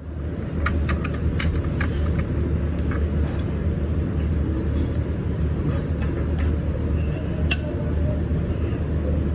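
Steady low hum and rumble with scattered light clicks and clinks.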